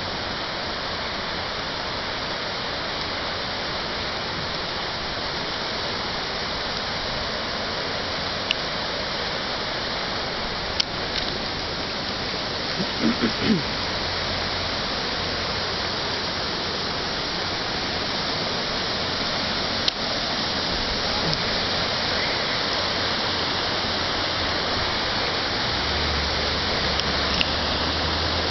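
Fast-flowing river floodwater rushing past in a steady, unbroken wash of noise, with a few faint clicks.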